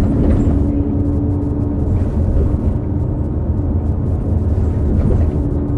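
New Flyer XD40 transit bus running, with its Cummins L9 diesel engine and drivetrain giving a steady low rumble. Over it a steady whine from the Allison B3400xFE transmission fades out about two and a half seconds in and returns near the end; it is the odd sound put down to worn transmission bearings.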